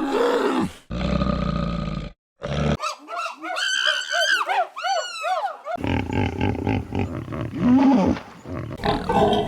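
A string of different wild animal calls that start and stop abruptly. It opens with a short growling call and a rough, low roar-like grunt. A fast run of chirping calls follows, each rising and falling. Near the end come mixed grunts and calls.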